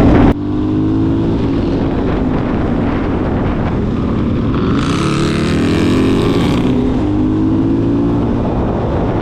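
Suzuki DR-Z400SM single-cylinder four-stroke engine running while riding, its revs drifting up and down, with a rushing hiss for a couple of seconds in the middle.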